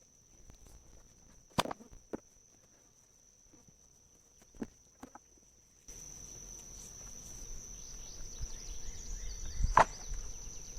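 Insects chirring in one steady high-pitched tone, with a few scattered knocks and clicks; the sharpest knock comes near the end.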